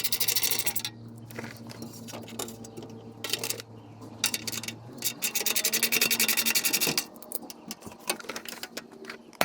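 Ratchet clicking rapidly in quick bursts as bolts are run out of a steel underbody plate, with scattered metal clinks between the bursts.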